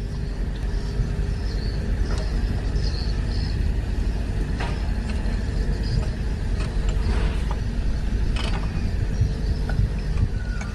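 Steady low mechanical rumble, like a running engine, with scattered metallic clicks and knocks.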